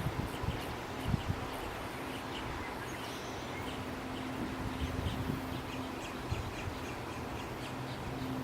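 Red-winged blackbirds at the nest giving a rapid series of faint, short, high chirps from about three seconds in. A low steady hum comes in about halfway through.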